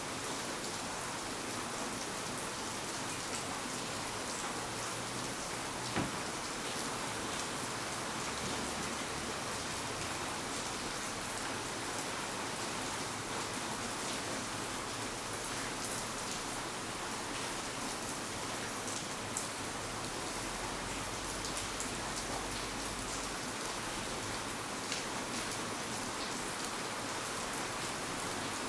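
Steady rain falling, an even hiss with scattered drops tapping on surfaces and one sharper tap about six seconds in.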